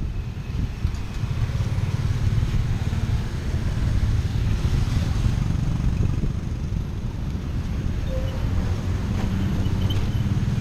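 Motorbike engine of a tuk-tuk running steadily as it drives along the road, with a low rumble and road noise.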